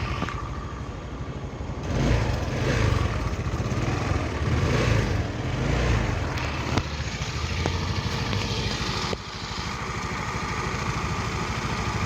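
AXXO Viper 180cc scooter's single-cylinder engine running. It rises and falls in revs between about two and six seconds in, then drops back to a steady idle about nine seconds in. The exhaust has a freshly replaced exhaust gasket, and the loud, exaggerated exhaust noise is gone, leaving an even, quiet exhaust note.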